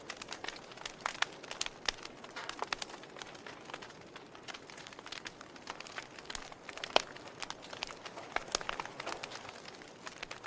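Fire crackling: irregular sharp pops and snaps over a soft steady hiss, with one louder pop about seven seconds in.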